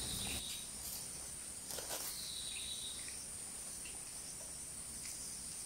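Insects chirring in a steady, high-pitched drone, with a couple of faint falling whistles and a few light clicks.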